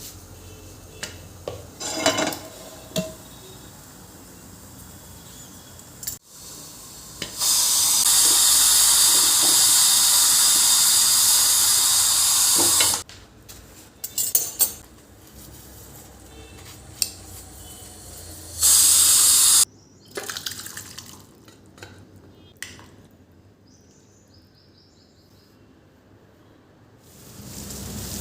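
Kitchen tap running into a sink for about five seconds, then again briefly, with clinks and knocks of dishes and utensils between.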